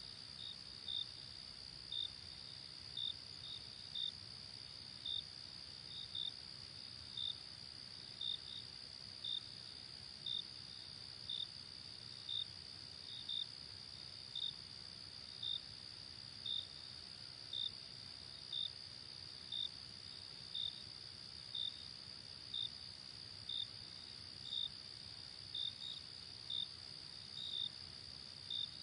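Night insects, tagged as crickets: a steady high-pitched trill, with a separate short chirp repeating about once a second, sometimes doubled.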